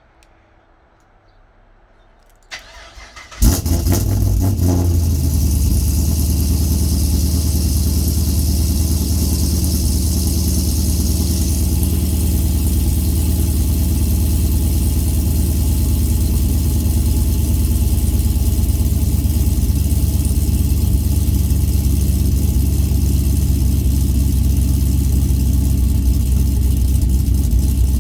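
Cold start of a Camaro SS V8 fitted with an aftermarket cam and mufflers: the starter cranks briefly about two and a half seconds in, the engine catches about a second later, and it settles into a steady idle.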